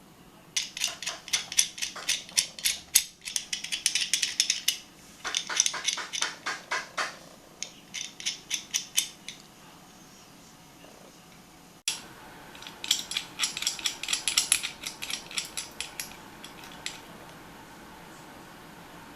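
Antique adjustable wrench being worked, its adjuster giving trains of quick metallic clicks, about five a second, in several bursts. There is a sudden cut about halfway through, then another run of clicks.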